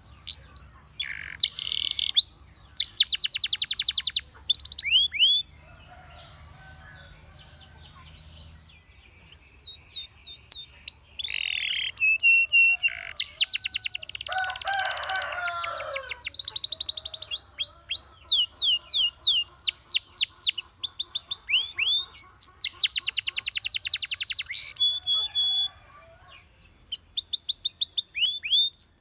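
Domestic canary singing: phrases of rapid trills and repeated falling whistle notes. The song stops for a few seconds about a fifth of the way in, and a harsher, rasping phrase comes near the middle.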